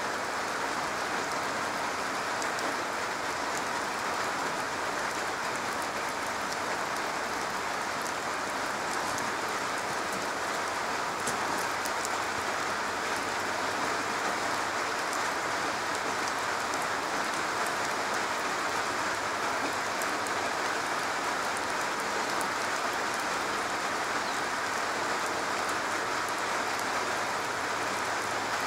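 Steady rain falling on a garage roof: an even, unbroken patter with scattered sharper ticks of single drops.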